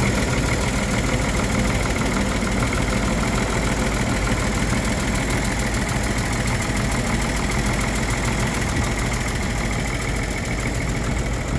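A GM 292 inline-six engine, a late-1960s to early-1970s unit fitted in a 1954 GMC truck, running at a steady idle.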